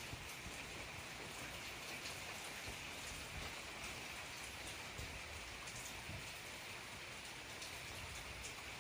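Faint, steady rain falling, with scattered drops ticking on surfaces.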